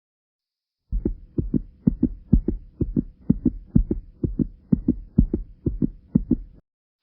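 A quick, regular series of short, low thumps, about four a second and loosely paired, starting about a second in and cutting off abruptly near the end.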